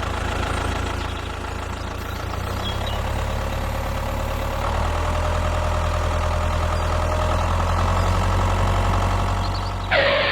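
Small engine of a homemade miniature tractor running steadily, getting slightly louder about five seconds in.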